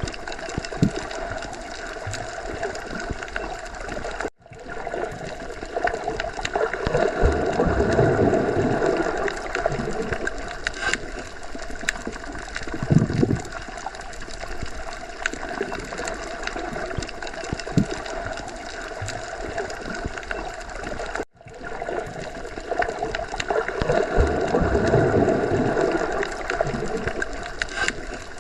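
Underwater sea ambience: a steady watery wash with gurgling, swelling louder and easing off in a pattern that repeats about every 17 seconds. It cuts out for an instant twice, about 4 seconds in and about 21 seconds in.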